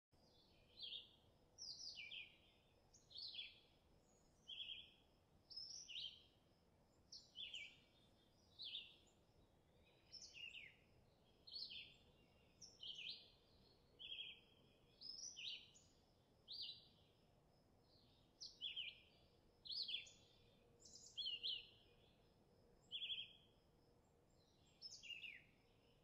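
A bird chirping over and over: short, quickly falling high notes, about one every second or so, over a faint steady background hiss.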